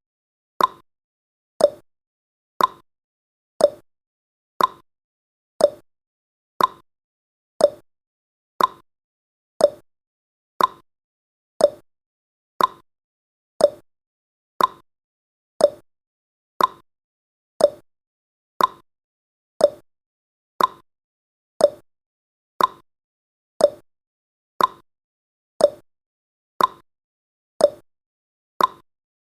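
Clock-tick sound effect of a countdown timer: one short, sharp tick about every second, evenly spaced, with silence between the ticks.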